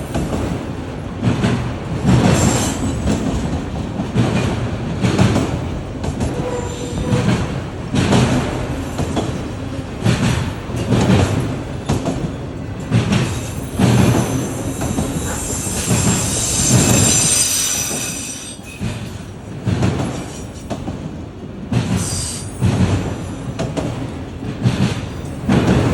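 Train rolling past, its wheels clicking over rail joints about once a second, with a high-pitched wheel squeal for a few seconds around the middle.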